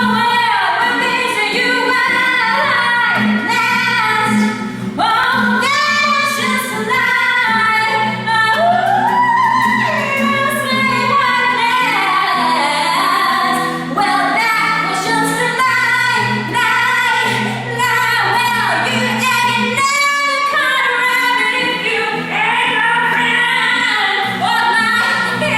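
A female voice sings a melody with many sliding notes over a steady, low held musical accompaniment.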